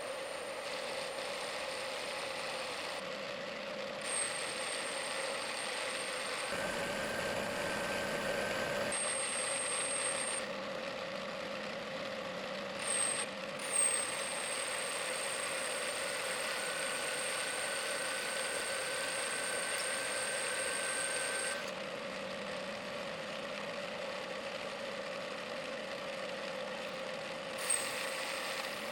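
Mini lathe under nanoELS G-code control, cutting the nozzle's side profile with a grooving and profiling pass. A steady motor hum runs throughout, with a high thin whine that cuts in and out several times as the feed moves start and stop, and a few soft clicks.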